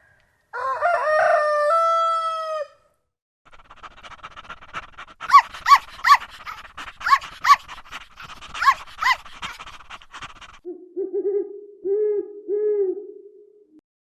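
Three different animal calls one after another: a drawn-out, falling call lasting about two seconds, then several seconds of sharp calls repeated in quick groups, then a low hooting series near the end.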